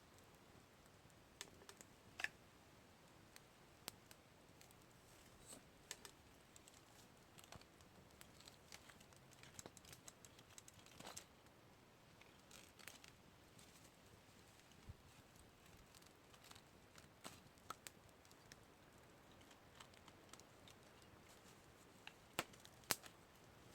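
Campfire crackling: irregular small sharp pops and snaps over a faint steady hiss, with a few louder pops about two seconds in and near the end.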